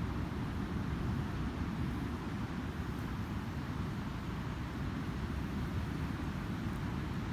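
Ocean surf breaking on a sandy beach: a steady, low rumbling wash with no let-up.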